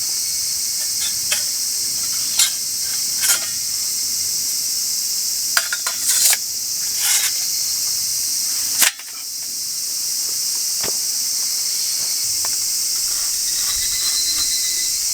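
Steady high-pitched chorus of summer insects, with a few sharp clicks and pops scattered through the first half, the loudest about nine seconds in.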